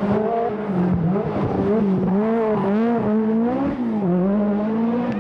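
Group B rally car engine running hard, its pitch dipping and climbing again several times as the driver lifts, shifts and gets back on the throttle.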